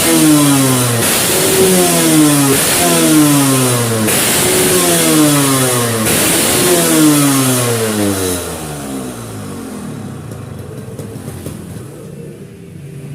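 Engine breathing through a Boban 39 aftermarket exhaust, its throttle blipped about once a second, each rev falling straight back. About eight seconds in it settles to a quieter, steady idle.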